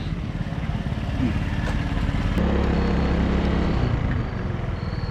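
A vehicle engine running, a low steady rumble that grows louder and steadier for about a second and a half in the middle.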